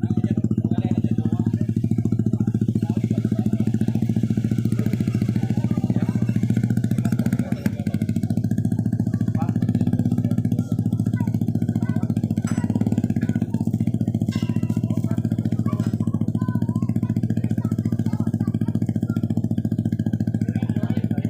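Ferry's diesel engine running loudly and steadily, a low even drone with a fine rapid pulse.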